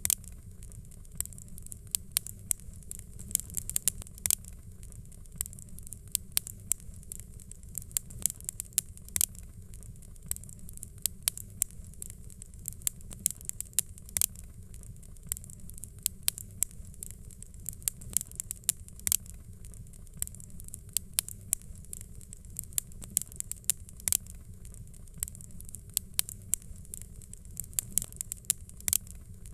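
Fireplace fire crackling, with frequent irregular sharp pops over a low steady rumble.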